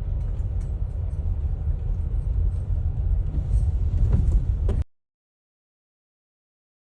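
Loud, steady low rumbling noise with a short knock just after four seconds, cutting off suddenly about five seconds in, followed by silence.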